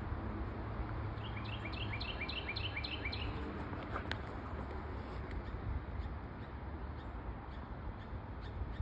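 A songbird sings one quick phrase of about eight or nine repeated notes, about four a second, starting a second or so in, over a steady low rumble of outdoor background noise.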